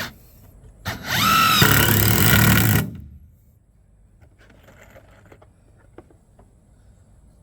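Power drill driving a screw into wood: a short knock, then about two seconds of the drill's motor running under load, its whine bending in pitch, before it stops. A few faint light clicks follow.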